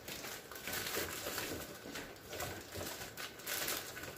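Plastic food packaging crinkling and rustling in irregular bursts as packaged meat is handled and put into a refrigerator.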